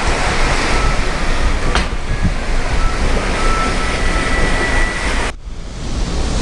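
Steady rumble and rush of a cruise ship under way, heard on board, with wind on the microphone. One sharp click comes about two seconds in, and the noise drops out briefly about five seconds in.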